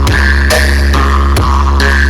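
Loud electronic dance music played over a large sound system, with a heavy steady bass and alternating synth notes over regular beats.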